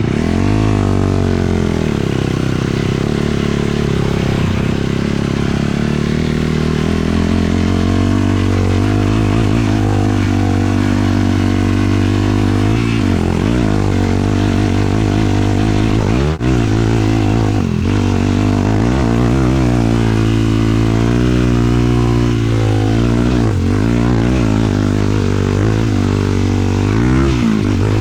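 A 450 cc single-cylinder sport quad engine running under way, its pitch rising and falling again and again with the throttle. The sound dips briefly about halfway through.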